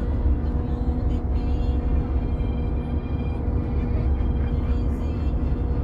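Steady low rumble of a boat engine running, with background music over it.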